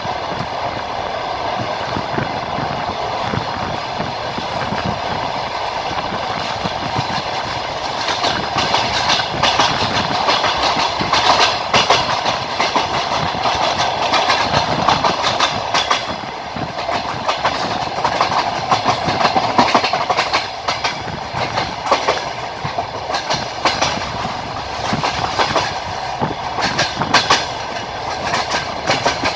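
Passenger train running along the line: a steady rumble with the wheels clacking over rail joints. The clacks grow sharper and more frequent from about eight seconds in.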